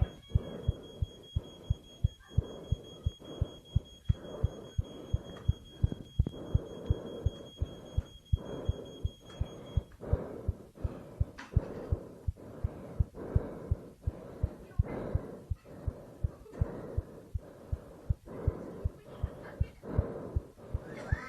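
Rapid, even low thumping, about two beats a second, over a hum, with a steady high-pitched tone that cuts off about ten seconds in.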